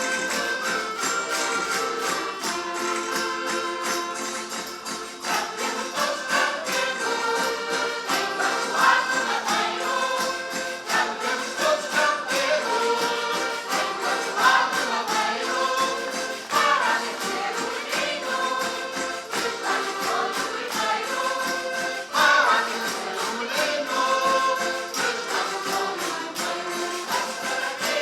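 Portuguese folk group singing a Christmas folk song in chorus, with instrumental accompaniment and a steady percussion beat.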